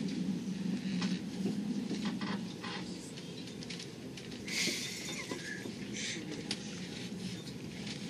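Steady low rumble of a passenger train in motion, heard from inside the carriage, easing slightly after about three seconds, with faint ticks and a short hiss about four and a half seconds in.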